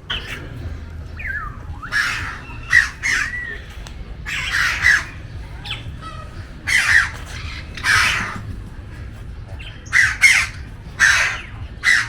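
Birds giving harsh squawking calls, about ten over the stretch, some in quick pairs, with a few short swooping whistled notes in between.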